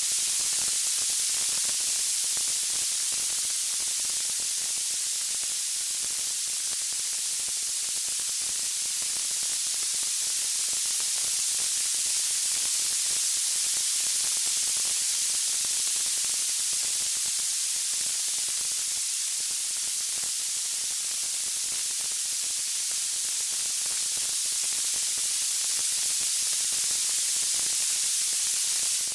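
Steady, even white-noise hiss, strongest in the high end and unchanging throughout, with no distinct crackles or music, as in a synthetic wood-fire sleep ambience.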